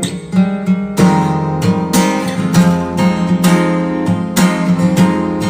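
Acoustic guitar strumming chords in a steady rhythm, with no voice, in an instrumental gap of a pop ballad. The strumming grows fuller about a second in.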